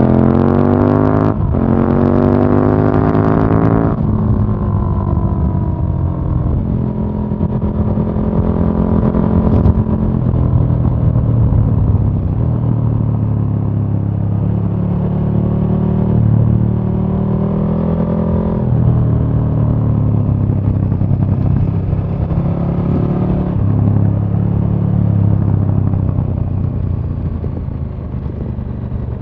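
KTM 1290 Super Duke R's V-twin engine heard onboard: it revs up hard through one upshift in the first few seconds, then runs at a lower, steadier pitch with gentle throttle rises and falls, easing off near the end.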